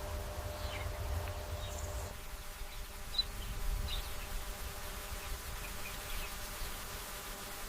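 Ambient nature sound: insects buzzing steadily, with a few short high chirps scattered through, over a low rumble that drops away about two seconds in.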